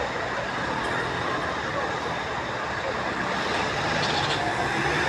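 Steady street traffic noise, with motor vehicles running and passing.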